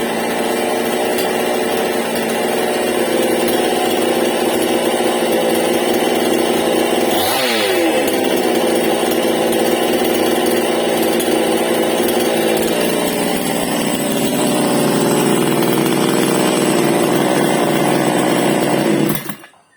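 Stihl MS788 chainsaw running at high revs. Its pitch dips briefly and climbs back about seven seconds in, and it cuts off abruptly near the end.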